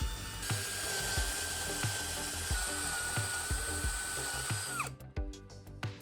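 Electric drill running at a steady speed for about four seconds, then winding down, over background music with a steady beat.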